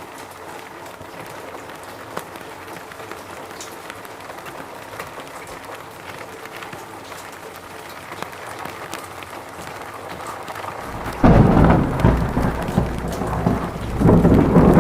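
Steady rain falling. About eleven seconds in, a sudden loud, deep rumble of thunder breaks in, swelling again near the end.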